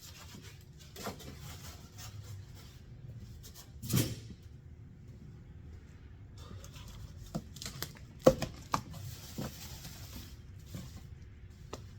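Scattered knocks, taps and rustles of packing material being handled as a new engine is unpacked from its box. One louder knock comes about four seconds in and the sharpest about two-thirds of the way through, over a faint steady hum.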